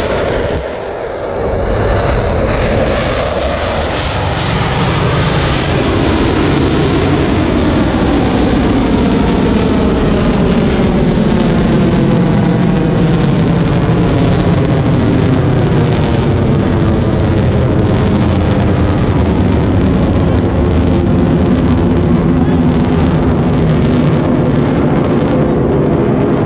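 Military demonstration jets flying past, a loud steady jet engine noise that builds about two seconds in and then holds, with a sweeping, wavering tone running through it.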